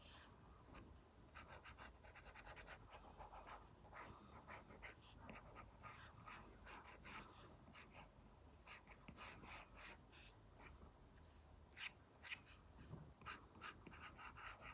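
Apple Pencil Pro tip drawing on an iPad screen covered with a paper-like film: faint, scratchy short strokes, a quick run of them about two seconds in, and a few sharper taps near twelve seconds.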